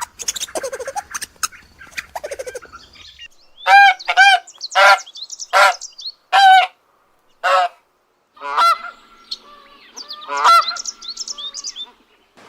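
Geese honking: a run of about nine loud, separate honks from about four seconds in, after a few seconds of quieter chirping and clicking.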